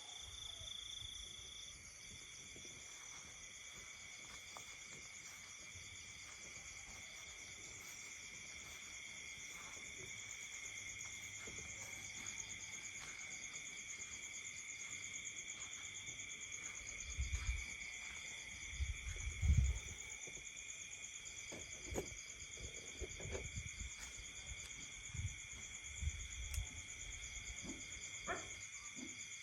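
Night chorus of insects such as crickets, several steady high-pitched trills layered over each other. A few low thumps come in the second half, the loudest about two-thirds of the way through.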